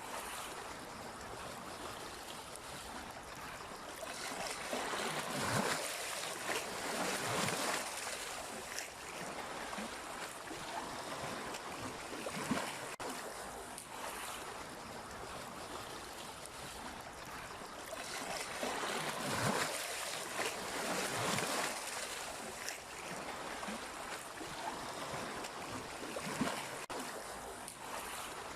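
Sea waves breaking and washing ashore in a steady rush, with two louder surges, one about five seconds in and another about nineteen seconds in.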